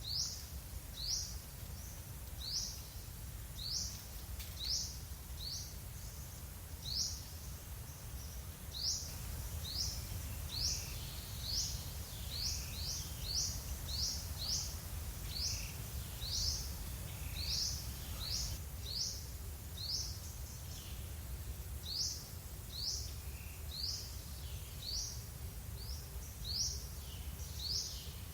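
A bird repeating a short, high chirp over and over, about one or two a second and quicker for a stretch in the middle, over a steady low rumble.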